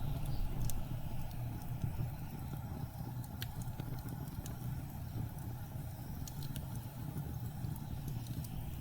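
Blizzard wind as a steady low rumble, with occasional sharp crackles from a burning wood fire.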